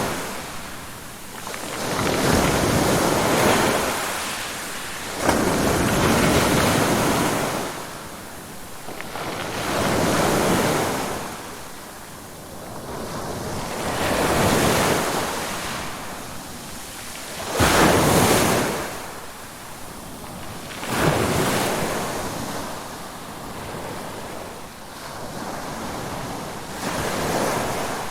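Ocean waves breaking and washing in, one surge every three to four seconds, several starting with a sudden rush and then fading away.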